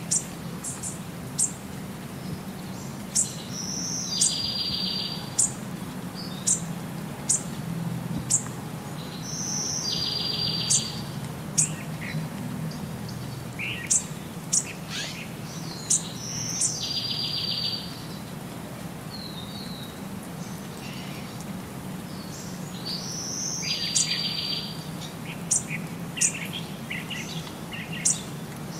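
Birds chirping: short, sharp, high chirps come about once a second, and a buzzy call about a second long comes every six seconds or so, over a low steady hum.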